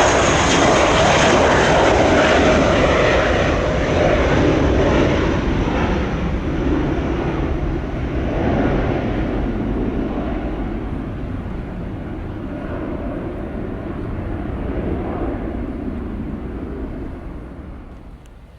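Jet airliner engines running loud at first, then fading steadily as the aircraft moves away, the high-pitched part of the noise dying out first.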